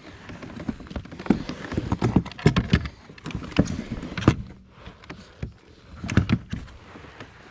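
Irregular knocks and thumps on a kayak, from gear or a paddle striking the hull.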